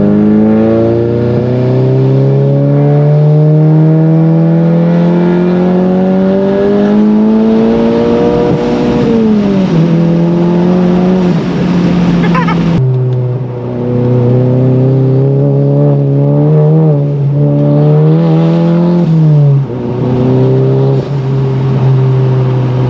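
The MK7 Golf GTI's turbocharged 2.0-litre four-cylinder, fitted with an IS38 turbo, pulling under load: its note climbs steadily for about nine seconds, then drops sharply at a gear change. It then holds a steady note with small surges and drops again near the end.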